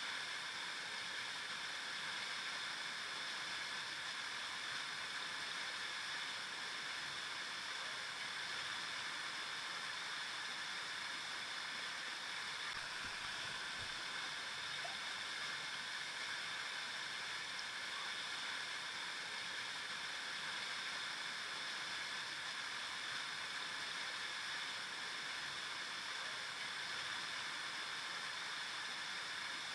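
River water flowing over rocks: a steady, unbroken rushing and gurgling, strongest in the higher range.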